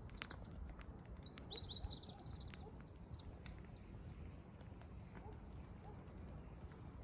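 Wood fire crackling with scattered sharp pops, over a steady low background rumble. A wild bird sings one quick, high twittering phrase from about one to two and a half seconds in, the loudest sound here.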